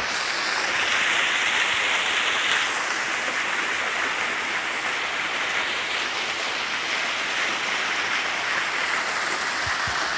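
A waterfall roughly 20 m high, heard as a steady hiss of falling, splashing water. The brightest part of the hiss eases a little about two and a half seconds in.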